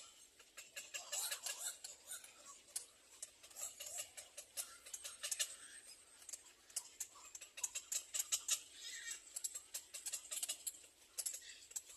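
Small birds chirping faintly among many quick scratchy clicks and rustles, as of birds moving about in a nest.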